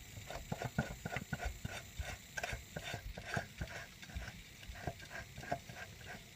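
Spin-on oil filter being unscrewed by hand from a Ford 302 V8: faint, irregular scraping and clicking as the canister turns on its threads.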